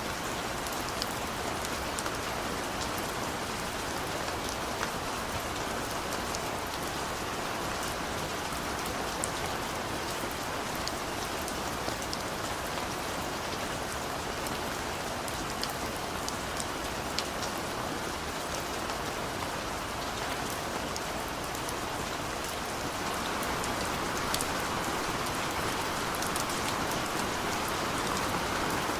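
Steady rain falling, a continuous hiss with many small drop splashes, growing slightly heavier near the end.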